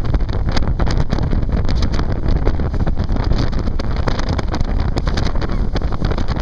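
Jet boat running at speed, with a loud, steady rush of wind buffeting the microphone and water noise.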